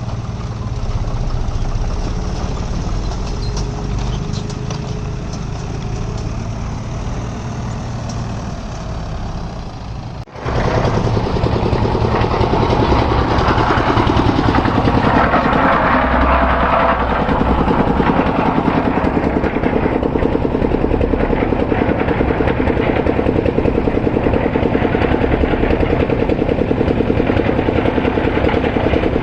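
Heavy diesel engines of earthmoving machinery running steadily. The sound breaks off for an instant about ten seconds in and comes back louder, with an even, fast engine beat.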